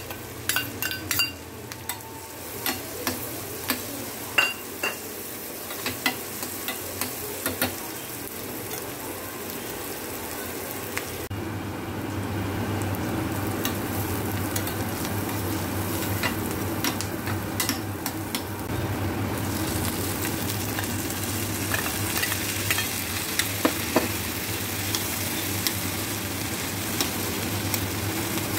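Chopped onions, and by the end sweet corn kernels, sizzling in butter in a stainless steel pan, stirred with a metal spoon that clicks and scrapes against the pan. Many clicks come in the first ten seconds. From about eleven seconds in, the sizzle is louder and steadier, with fewer clicks.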